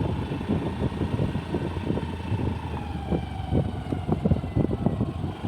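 Wind buffeting the microphone in gusts, over the steady hum of a passing motor vehicle's engine that slowly drops in pitch.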